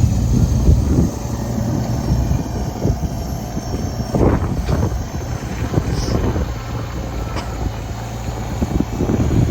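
Tractor engine running steadily, with wind on the microphone and a few short knocks or scrapes about four to five seconds in.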